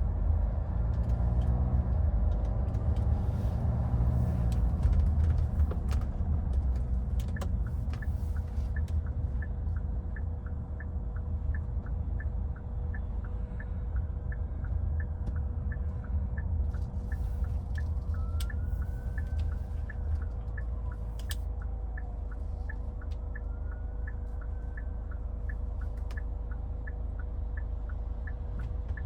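A 2014 Hyundai Santa Fe driving, heard as a steady low road and engine rumble, with the engine rising in pitch as it accelerates over the first few seconds. From a few seconds in, the turn-signal indicator ticks evenly, about one and a half ticks a second.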